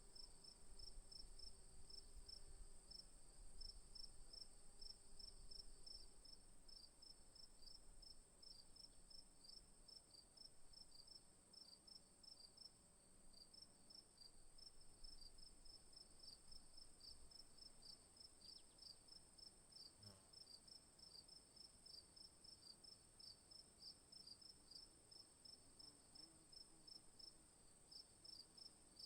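Faint insect chorus, likely crickets: a steady high buzz with a rhythmic high chirping at a few pulses a second.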